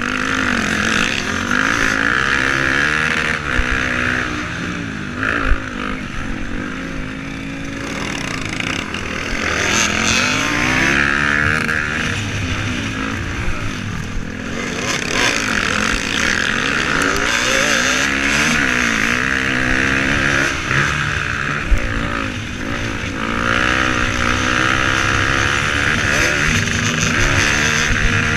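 Motocross motorcycle engines racing, their pitch repeatedly rising and falling as the riders open and close the throttle, with more than one engine heard at once. There are two brief sharp knocks, one early and one a little past two-thirds of the way through.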